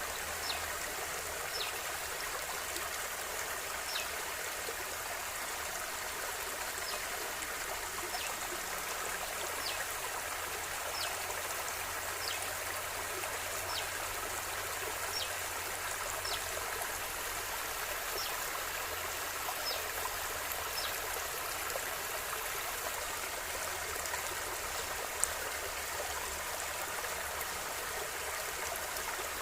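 River water flowing steadily, an even rushing. Short high chirps, each falling in pitch, come about once a second or so over it.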